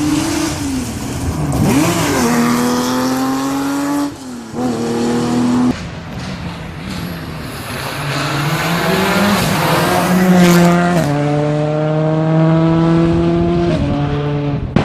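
Rally car engine running hard at high revs, its pitch stepping as it shifts gear, with short lifts off the throttle about four and six seconds in.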